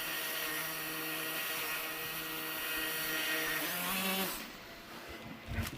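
Electric propeller of a small tail-sitter drone whirring with a steady, even hum; the pitch rises briefly and the sound then drops away about four seconds in. A short low thump comes near the end.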